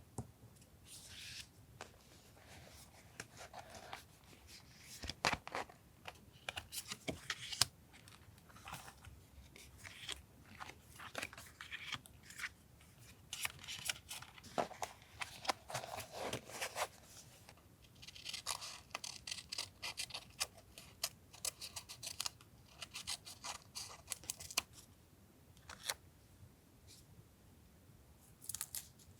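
Scissors cutting paper, with paper being handled and torn in short uneven rustles and clicks.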